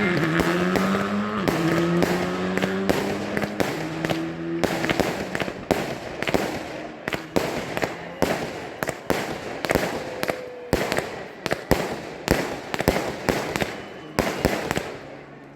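Rally car engine pulling hard, its pitch climbing in steps through upshifts for the first few seconds. It then gives way to a long run of sharp exhaust pops and bangs that grow fainter as the car moves off.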